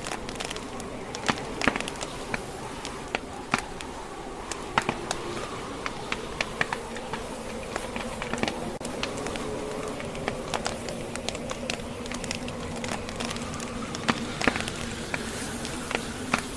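Wood fire crackling, with irregular sharp pops scattered over a steady hiss and a faint low hum.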